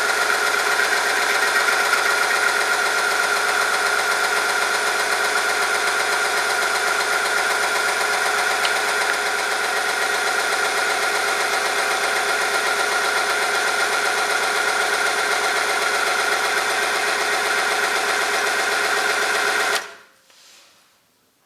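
Oil friction test machine running: an electric motor spinning a shaft that rubs against a metal test sample in oil, giving a steady hum with a high whine. It stops suddenly near the end, the sign of the machine coming to a halt under the added weights.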